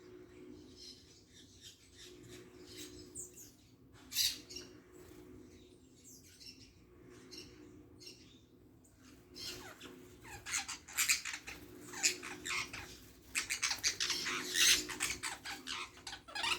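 Birds calling: scattered sharp chirps with one loud call about four seconds in, then a dense run of rapid chattering calls over the last seven seconds.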